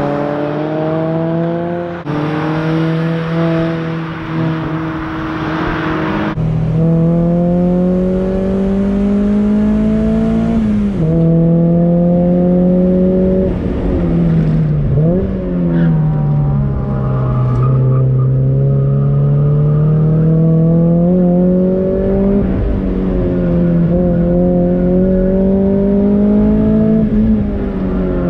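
A 1995 Mazda MX-5 Miata's 1.8-litre four-cylinder engine running hard on track. Its pitch climbs steadily as the car accelerates, then falls away sharply at each gear shift or lift, several times over. A loud hiss of wind or tyre noise sits over it for the first few seconds.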